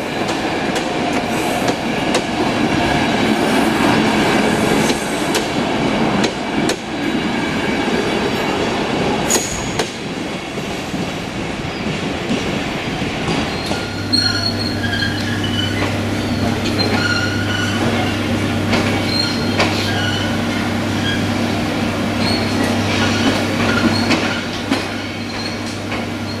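Train rolling slowly through a station: wheels squealing on the rails and clicking over joints. About halfway through, a steady low hum from a locomotive joins in.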